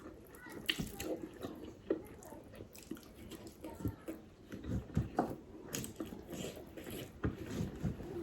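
Close-miked eating sounds: wet chewing and lip smacking in irregular short clicks and squelches.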